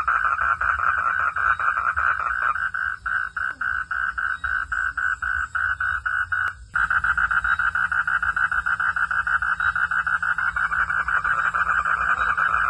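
Frogs calling in a rapid pulsed chorus, about five pulses a second. Just past halfway the sound cuts off abruptly and then resumes fuller.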